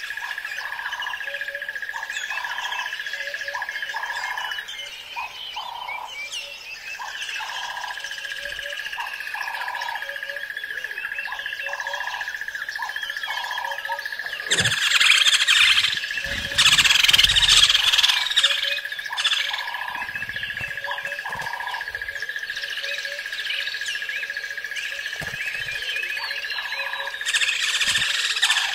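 Birds chirping and calling over a steady, high, unbroken whine, with short notes repeating about once a second. Roughly halfway through comes a louder stretch of dense calling, and another comes near the end.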